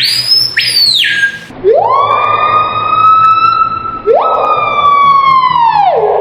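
Screaming piha calling: very loud whistles. A high note falls steeply in the first second, then two long notes each sweep sharply up and hold, and the second drops to a low held note near the end.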